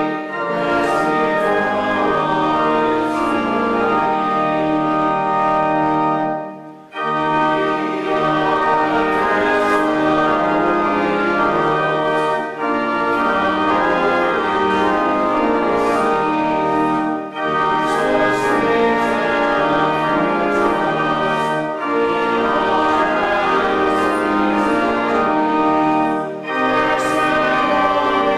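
Church organ playing sustained chords in phrases, with a short break between phrases every few seconds.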